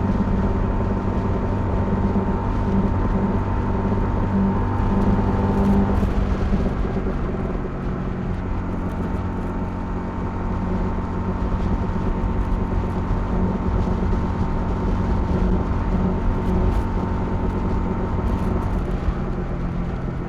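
Honda CL250's single-cylinder engine running steadily while riding, with wind and road noise. The engine note shifts slightly about six seconds in.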